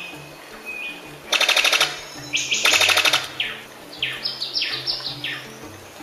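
Bird-of-paradise calls: two loud, rapid rattles, then a run of short, sharply falling notes. Soft background music runs underneath.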